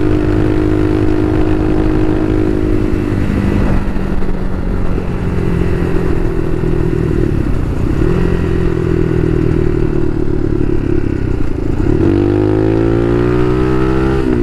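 Bashan Motomax 250 supermoto's 250 cc engine running under way. The revs drop about three and a half seconds in and hold fairly steady, then climb steadily over the last couple of seconds as the bike accelerates, dipping briefly near the end as it shifts.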